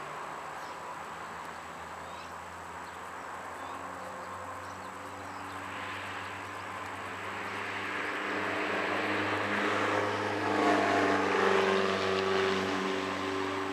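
A passing engine: a steady hum that builds over several seconds, is loudest about ten to twelve seconds in, then eases off.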